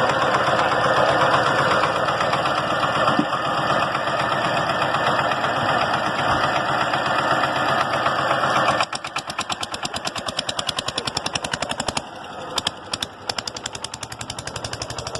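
Old engine running steadily. About nine seconds in, it drops suddenly to a slower run with distinct, rapid, even firing pulses. Near the end it dips briefly with a couple of sharp pops before the pulses pick up again.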